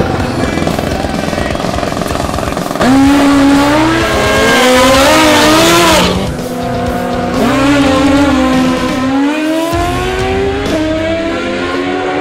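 Drag-racing sport bike engine revving hard. About three seconds in it jumps suddenly louder with a tyre screech, then accelerates, its pitch climbing, dropping back at a gear change and climbing again.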